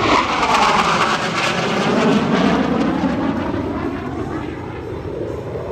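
Formation of T-45 Goshawk jet trainers flying past, their turbofans' whine sliding down in pitch as they go by, loudest in the first two seconds and then fading as they pull away.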